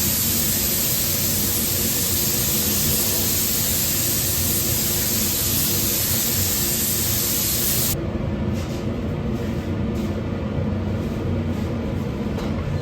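Spray gun hissing steadily as it sprays 2K acrylic paint, then cut off suddenly about two-thirds of the way through. A low steady hum of machinery runs underneath, with a few light clicks after the spraying stops.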